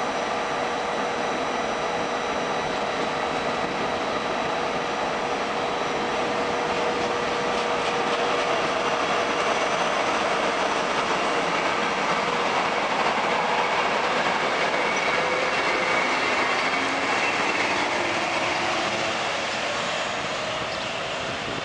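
Italian electric passenger trains running through a station: steady rolling and wheel noise of carriages, with a steady electric hum that fades about halfway through. The noise swells a little in the middle and eases near the end.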